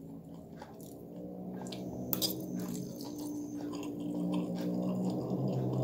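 Close chewing of a mouthful of fried noodles, with small clicks of a metal fork and spoon on the plate and one sharp clink about two seconds in.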